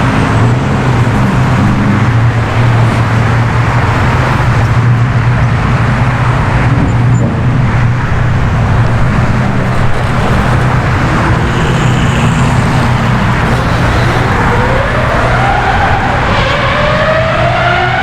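Car engine noise: a loud, steady low drone, then about fifteen seconds in an engine accelerating, its pitch rising.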